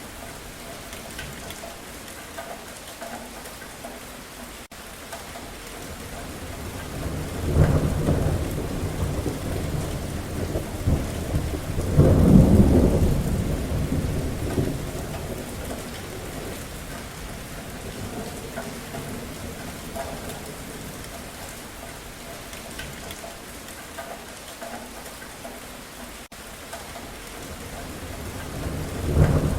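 Steady rain falling, with thunder rumbling twice: a roll about seven seconds in, then a louder, deeper one around twelve seconds in that fades over a few seconds. Another roll of thunder builds near the end.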